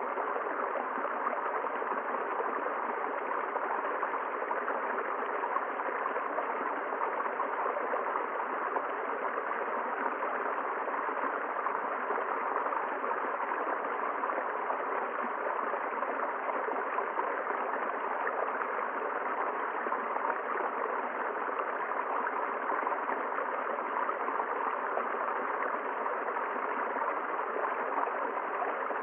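A river's water flowing steadily, an even, unbroken sound of running water.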